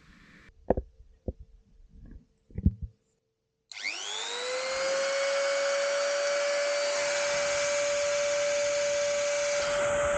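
A few light handling knocks, then a Dremel rotary tool switched on: its whine rises quickly as it spins up, then holds a steady high pitch. It is used to buff scratches out of a camera lens with diamond paste.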